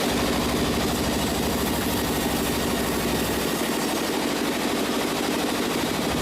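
Sawmill machinery running steadily with a dense mechanical drone; the deepest part of the sound drops away about halfway through.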